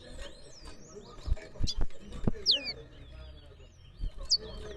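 Competing songbird chirping and whistling between full songs, with a bright falling whistle about halfway through and a short rising note near the end. A few dull knocks come in the first half.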